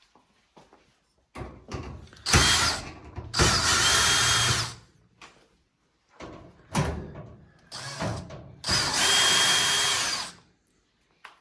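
Power drill/driver running in two spurts of about two seconds each, with a steady high whine, during disassembly of an LG dryer; lighter clicks and handling noises come before each run.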